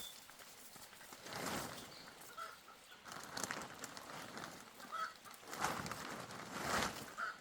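Chickens clucking in short calls, with several swells of rustling noise between them.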